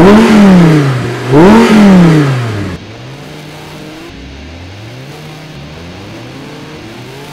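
2014 Audi R8 V10 Plus's 5.2-litre V10 revved hard twice, each rev climbing sharply and falling back, the second about a second and a half after the first. The sound then drops suddenly to a quieter engine note whose pitch climbs again and again.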